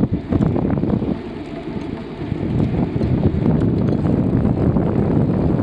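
Wind buffeting the microphone while cycling, a loud low rumble that eases for about a second and then picks up again.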